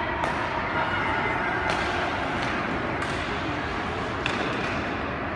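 Ice rink ambience during a hockey game: a steady wash of skating and arena noise, broken by a few sharp knocks of sticks, puck or boards.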